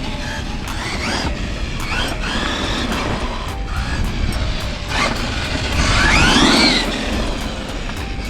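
Electric motor whine of a Losi LMT 4WD solid-axle RC monster truck, revving up and down in repeated bursts. The largest rise and fall comes near the end, over background music.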